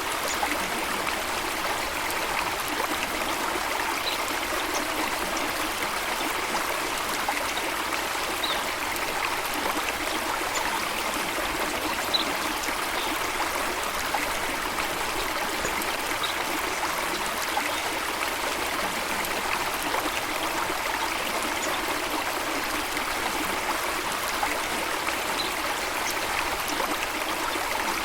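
Steady rush of flowing water, even and unbroken. A few faint, brief bird chirps come through now and then.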